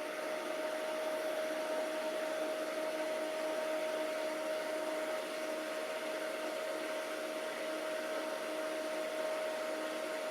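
Alienware Aurora desktop's cooling fans running at full speed, a steady whir with a steady hum just after spinning up. The machine powers on but gives no video, and the fans blow like a hurricane.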